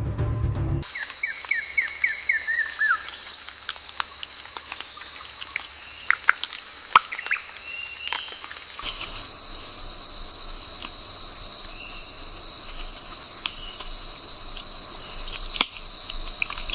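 Rainforest insect chorus, a steady high shrill that holds throughout, with a short bird trill of quick falling notes a couple of seconds in and scattered sharp clicks. A low rumble from the preceding segment fills the first second.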